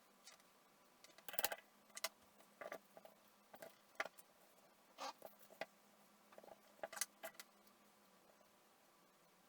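Irregular small clicks, taps and short scrapes of handling small objects, a dozen or so over several seconds, over a faint steady hum.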